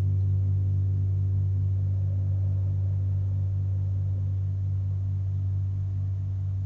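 A gong's long, deep ring slowly dying away, one of its tones wobbling in a quick, steady pulse.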